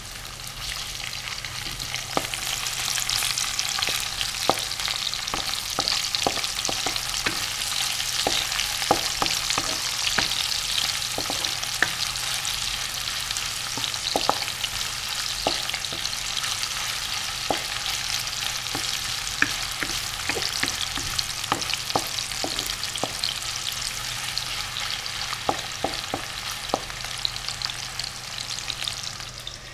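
Sliced garlic and ginger sizzling in hot oil in a wok, stirred with a wooden spatula that scrapes and knocks against the pan in frequent sharp clicks. The sizzle swells over the first couple of seconds, then stays steady.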